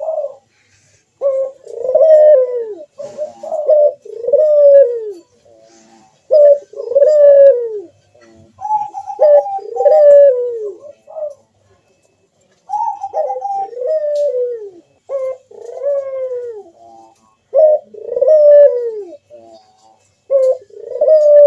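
Puter (ringneck dove) cooing over and over: a steady run of loud coo phrases, each a short clipped note followed by a longer drawn-out falling coo, one every two seconds or so. This is the bird's full song (manggung), with its deep coo (bekur).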